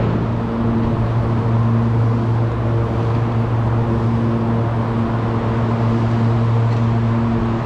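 Truck engine running at a steady speed, a constant droning hum.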